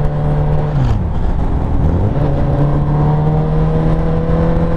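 Honda CBR1000RR's inline-four engine running under way at steady revs, the note dropping as the throttle eases off about a second in, then climbing back about two seconds in and holding steady.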